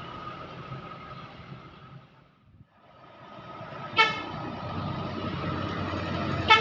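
Truck engine and road noise, dying away almost completely about halfway, then building back up, with a short horn toot about four seconds in and another near the end.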